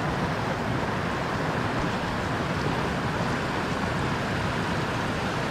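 Steady rushing of water pouring over a dam, an even roar with no change in level.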